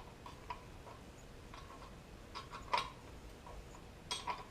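Scattered light metallic clicks of hand tools on bolts as the bolts are worked in to draw the engine onto its dowels. The loudest click comes just under three seconds in, and another comes near the end.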